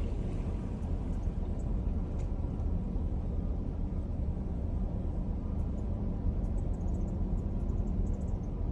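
A vehicle's engine idling, a steady low rumble.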